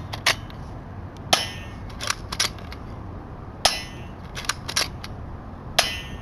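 Airsoft Uzi firing single shots at a cookie at close range: four sharp snapping shots, one every one to two seconds, with lighter clicks in between.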